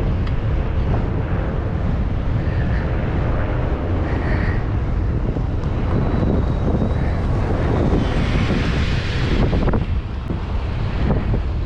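Wind buffeting the microphone of a camera on a moving bicycle, a steady low rumble. A louder rushing swell builds about eight seconds in and cuts off suddenly nearly two seconds later.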